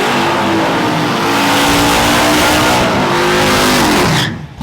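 Race truck engine running hard at full throttle under a dense roar of noise. Its pitch slides down about four seconds in as it lets off.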